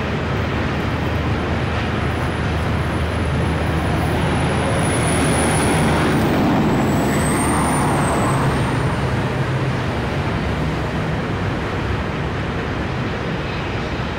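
A long freight train of hopper cars rolling past at a distance, a steady rumble mixed with the rush of river rapids, swelling a little around the middle. A thin high whine runs through it and dips in pitch about halfway.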